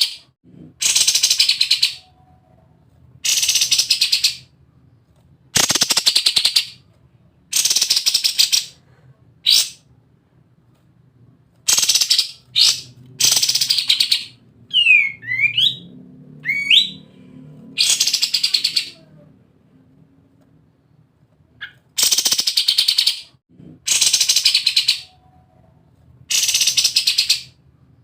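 Kapas tembak songbird giving its rapid machine-gun-like 'ngebren' rattle. The dense, high-pitched bursts each last about a second and repeat every second or two. Near the middle come a couple of short falling whistled notes.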